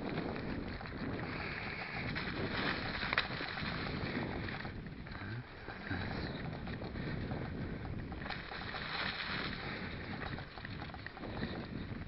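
Stels mountain bike rolling over a rough forest track: steady tyre and frame rattle with wind on the microphone, and a sharp click about three seconds in.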